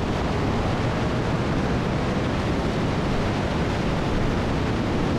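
Steady rushing of wind and road noise from a car moving at speed, with no distinct engine note.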